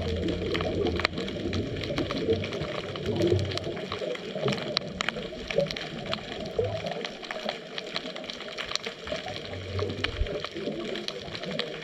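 Underwater sound picked up by a GoPro in its waterproof housing during a scuba dive: muffled water noise with constant fine crackling clicks, and low rumbles that come and go every few seconds.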